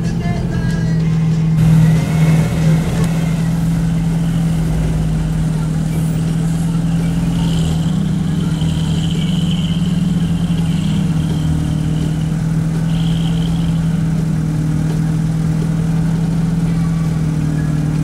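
Jeep engine running at steady revs as the vehicle crawls up a steep, loose dirt hill. It is briefly louder about two seconds in.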